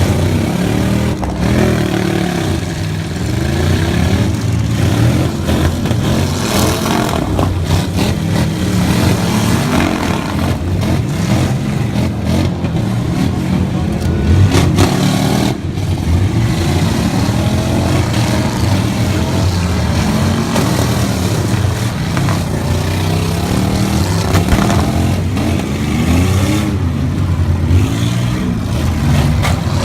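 Truck engine running loud and revving, its pitch rising and falling again and again.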